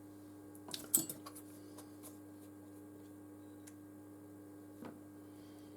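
Light clicks and taps of small phone parts and tools being handled: a short cluster about a second in, then a few single ticks, over a steady low hum.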